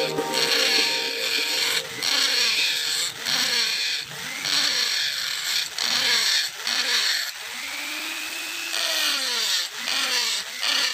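Small handheld power tool working wood. Its pitch rises and falls in repeated arcs about once a second as it is pressed into the wood and eased off.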